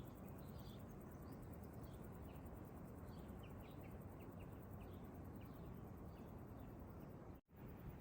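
Faint outdoor ambience: a steady low background hiss and rumble with scattered short, high chirps of small birds. The sound cuts out for a moment near the end.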